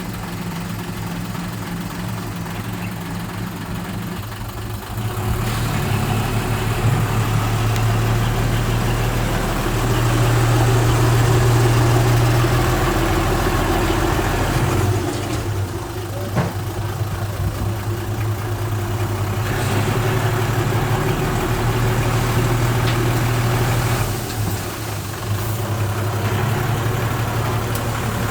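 A heavy machine's diesel engine running, its load and engine note rising and falling several times: louder from about five seconds in, easing near the middle, then building again twice.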